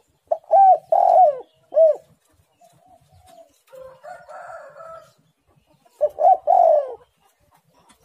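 Spotted dove cooing its rolling call in repeated phrases: a loud three-note coo in the first two seconds, a softer coo in the middle, and another loud two-note coo near the end.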